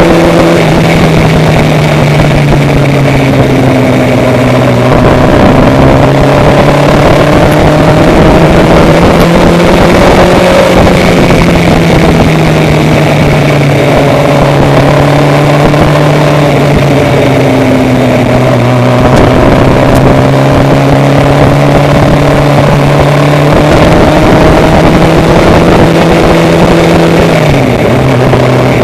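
An engine running steadily, its hum drifting slowly up and down in pitch, with a small shift near the end.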